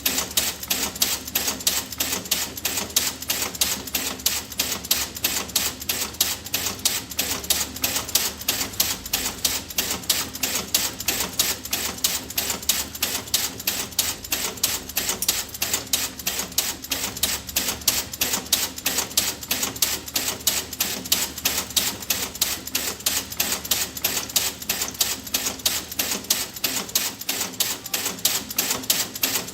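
Crisp, rapid clicking that repeats evenly several times a second and holds steady throughout, the tick-tock sound this video is made for.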